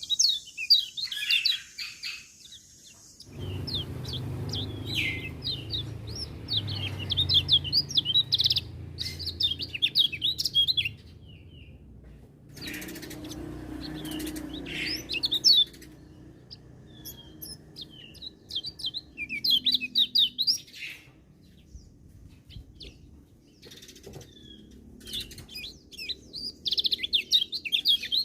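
Kecial kuning (a small white-eye songbird) singing rapid, high twittering phrases in several bursts with short pauses between them, over a low background rumble.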